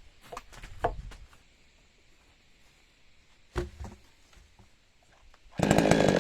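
A few light knocks and steps, then a chainsaw starts up near the end and runs loud and steady.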